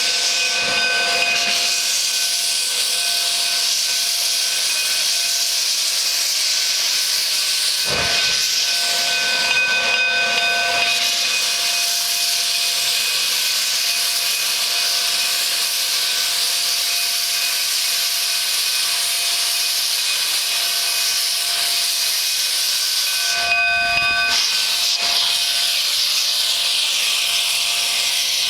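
Steam locomotive hissing steadily, with a few faint steady tones running inside the hiss. The sound dips briefly about eight seconds in and again near twenty-four seconds.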